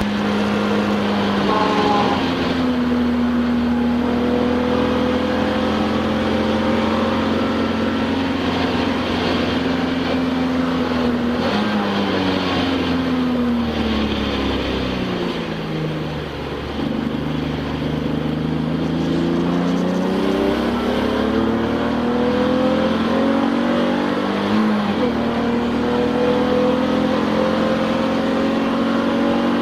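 Touring race car's engine heard from inside the cockpit at racing speed. Its pitch drops at a gear change just after the start, then climbs slowly. About halfway it falls away as the engine slows, then climbs hard again, with another sudden drop at a gear change near the end before it rises once more.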